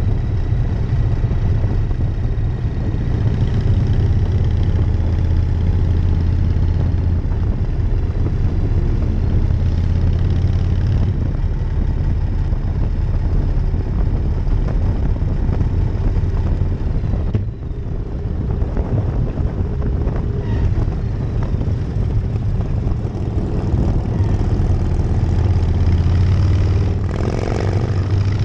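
1999 Harley-Davidson Night Train's V-twin engine running steadily under way, heard from the rider's seat, dipping briefly about two-thirds of the way through.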